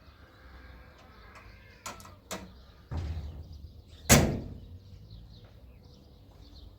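A door being worked and slammed shut: two sharp clicks, a dull knock, then one loud bang about four seconds in with a short ringing tail.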